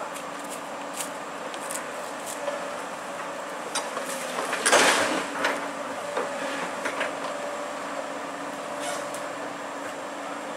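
An engine running steadily, with scattered knocks and clanks and one loud rushing burst about halfway through.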